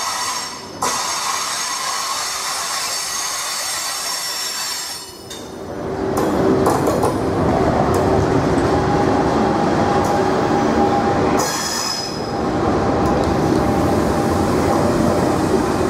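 Train moving through the station with its wheels squealing on the rails. A louder, lower running sound sets in about six seconds in, and there is another short high squeal near twelve seconds.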